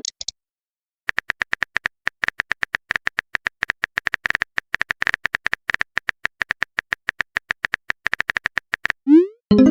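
Rapid phone-keyboard typing clicks, several a second, as a text message is typed out. Near the end comes a short rising swoosh and then a chime, the sound of a message being sent and received.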